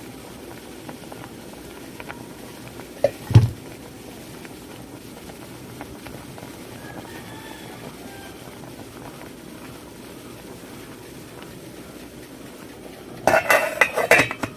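Kitchen pots and utensils clattering: one heavy knock about three seconds in, then a burst of rattling and clattering near the end, over a steady low background noise.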